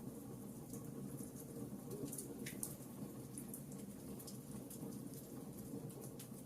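Wood fire burning in a fireplace: a steady low rumble with irregular sharp crackles and pops, about two a second.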